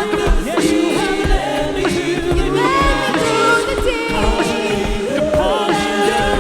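Live church worship music: several voices singing sustained chords, with sliding vocal runs, over a band with a steady kick drum.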